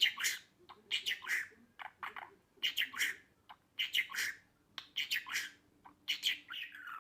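Budgerigar chattering: short, scratchy chirps and warbles in a steady string, about one phrase a second.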